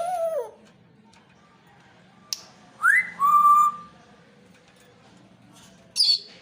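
Pet parrot whistling. It gives a short rising-and-falling call at the start, a whistle about three seconds in that sweeps up and then holds one steady note, and a short high chirp near the end.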